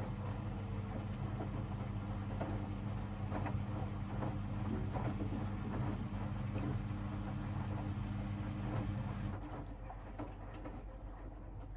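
Hoover DXOA610AHFN-80 washing machine in its wash phase: the drum motor hums steadily while the load tumbles with soft knocks, then the drum stops about nine seconds in.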